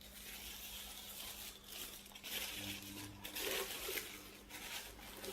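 Wrapping being crinkled and torn open by hand as a small gift is unwrapped, an uneven rustling that comes and goes in surges.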